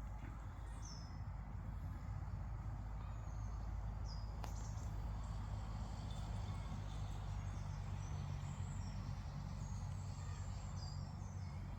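Birds chirping in short, high notes that fall in pitch, scattered over a steady low rumble and outdoor background noise.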